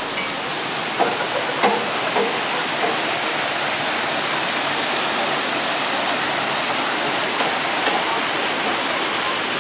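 Steady rush of fast-flowing water. A few faint knocks sound in the first few seconds.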